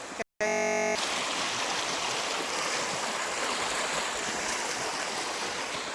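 Flowing water rushing steadily, as of a stream. Near the start, a brief tone of about half a second comes just before it.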